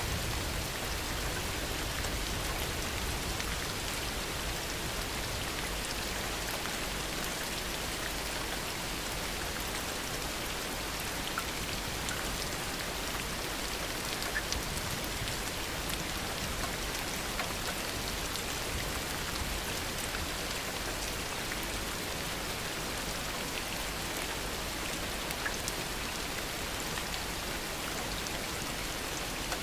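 Steady heavy rain falling, an even hiss with scattered sharper drop ticks and no thunder.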